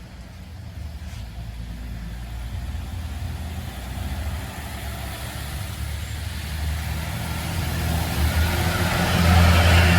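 Heavy road vehicle, likely a bus, approaching with a low engine note and tyre noise on the rain-wet road. Both grow steadily louder and are loudest near the end as it draws near.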